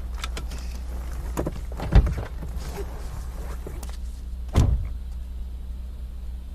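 A door handled: light clicks and knocks, then two heavy thuds about two and a half seconds apart, the first the louder, over a steady low hum.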